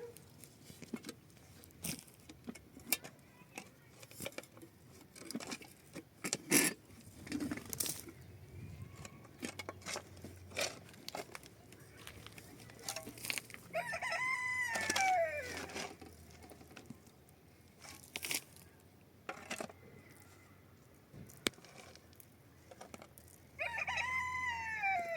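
A rooster crowing twice, each crow about two seconds long and falling away at the end, with scattered light clicks and knocks between.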